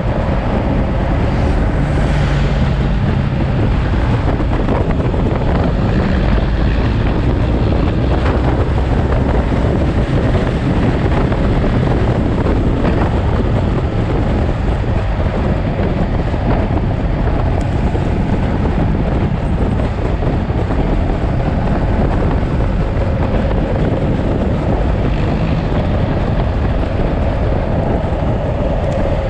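Motorcycle on the move: loud wind rush on the microphone over the engine's steady running note.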